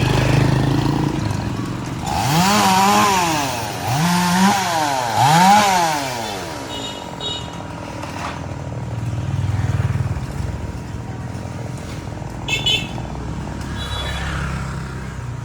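Two-stroke chainsaw revved up three times in quick succession, about two, four and five seconds in, its pitch climbing and dropping back each time. A low steady engine drone runs underneath.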